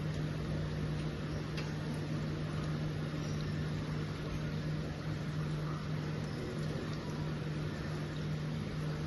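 Steady mechanical hum with one low tone held evenly throughout, over a faint hiss.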